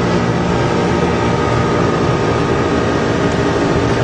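Steady flight-deck noise of a Boeing 747 in the climb: an even rush of air and air-conditioning hiss under a hum of several constant tones.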